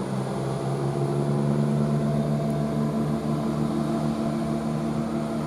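Class 170 Turbostar diesel multiple unit's underfloor diesel engines working as the train pulls out of the station, a steady engine note that lifts slightly in pitch about a second in.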